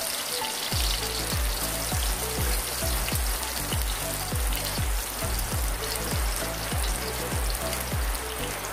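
Chopped garlic and onion sizzling in hot oil in an aluminium wok. Background music with a steady bass beat comes in under it about a second in.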